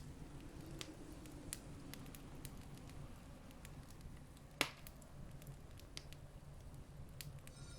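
Campfire crackling: scattered small snaps and one sharp, louder pop about halfway through, over a low steady rumble.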